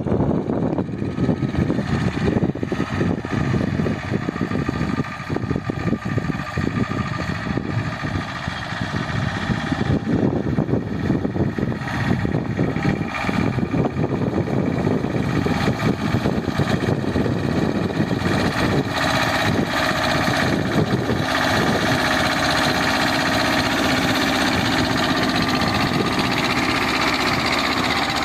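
Escort 325 diesel tractor engine running steadily while pulling an 11-tine cultivator, growing louder about halfway through.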